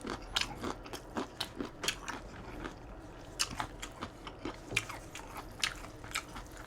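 Close-miked chewing of a mouthful of sesame chicken with broccoli: irregular crunches and mouth clicks, two or three a second.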